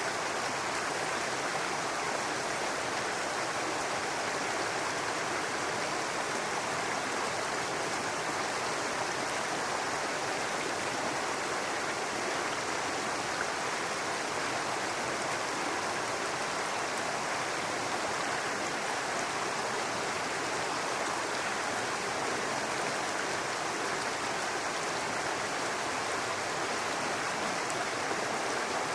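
Babbling brook: shallow water running steadily over stones.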